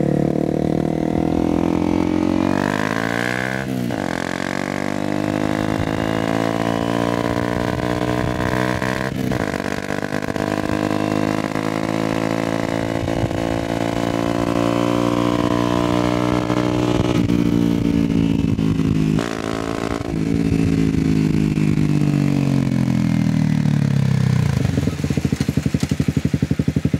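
Single-cylinder engine of a 2013 Honda CBR250R motorcycle accelerating under way, its pitch climbing and dropping sharply at three upshifts. Near the end it slows, with the pitch falling steadily.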